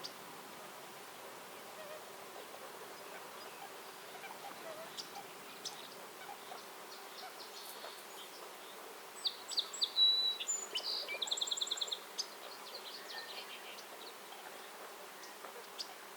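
A songbird chirping, then a rapid even trill lasting about a second, in a burst of calls a little past the middle, over a steady faint background hum.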